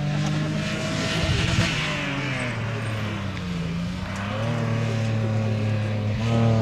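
Historic rally car's engine running hard at high revs. Its pitch dips about three seconds in, then climbs again under acceleration and grows louder near the end.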